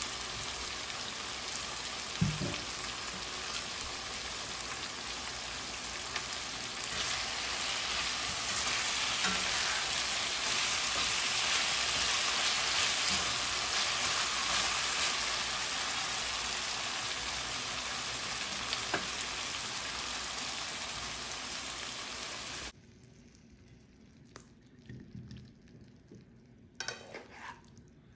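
Beef, potatoes, peppers and leeks sizzling in a hot nonstick frying pan as they are stirred with a spatula, with a knock about two seconds in. The sizzle swells in the middle, then cuts off suddenly near the end, leaving a few faint knocks and scrapes.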